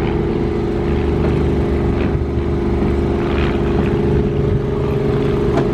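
Car driving, heard from inside the cabin: a steady drone of engine and road noise.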